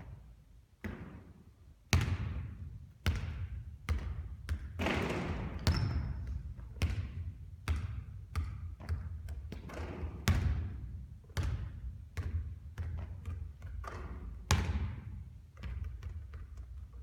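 A basketball bouncing and striking hard surfaces over and over, with about one to two sharp thuds a second, each trailing off in an echo.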